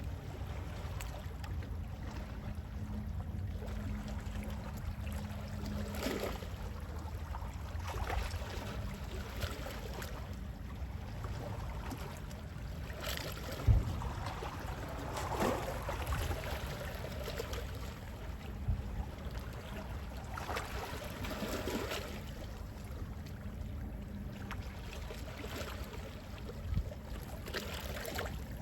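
Gentle sea waves lapping and splashing every few seconds over a steady low rumble, with one sharper thump about halfway through.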